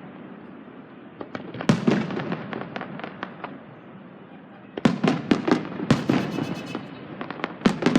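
Fireworks bursting: a loud bang about two seconds in followed by a trail of crackles, then a quick run of several bangs around five to six seconds, and a few more bangs near the end.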